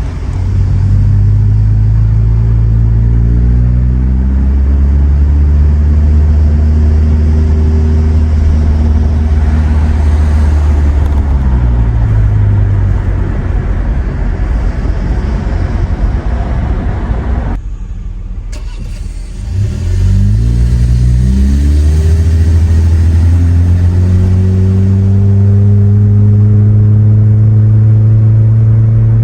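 Muffler-deleted 2017 Honda Accord LX's four-cylinder engine and exhaust heard from inside the cabin while driving: a low, loud drone that climbs in pitch under acceleration, falls away, then goes much quieter for about two seconds about two-thirds of the way through before climbing again and holding steady.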